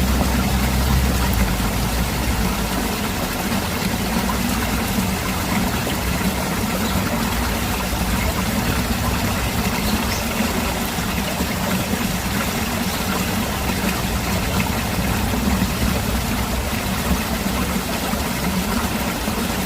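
Mountain stream water rushing over rocks: a steady, even rush with a low rumble underneath.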